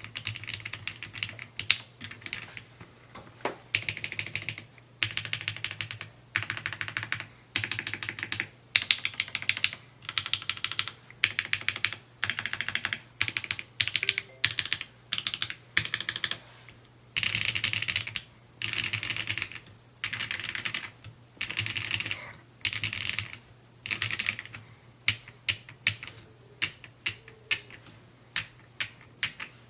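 Typing on an Evo80 mechanical keyboard: quick runs of keystrokes in bursts of about a second, separated by short pauses, with more scattered single presses near the end. A faint steady low hum runs underneath.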